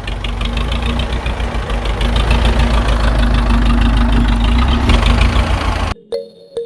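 An engine running with a fast, even knocking beat, growing louder over the first two seconds, then cut off abruptly near the end.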